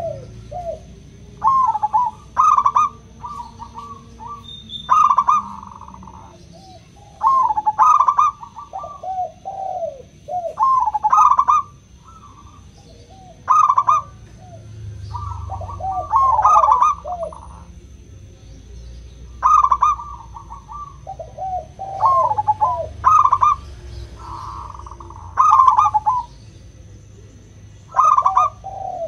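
Zebra dove (local perkutut) cooing: phrases of short, quick, warbling coo notes, each lasting about a second, repeated every two to three seconds.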